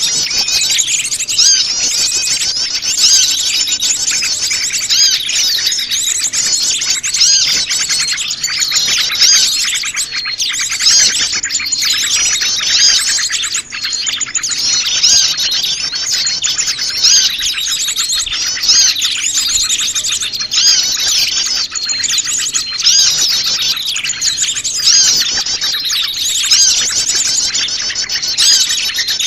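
A dense chorus of many small wild birds chirping and twittering over each other, a mixed flock of high, quick calls with the activity swelling about every two seconds.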